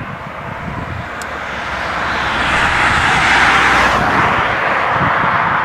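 Regional passenger train running in on curved track: a steady rushing rumble that swells to its loudest about three and a half seconds in, with a falling sweep near four seconds.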